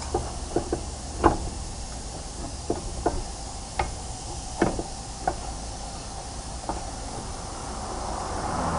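A steady low rumble with about ten short, irregular knocks and clunks over it, the loudest a little over a second in, like a car on the move.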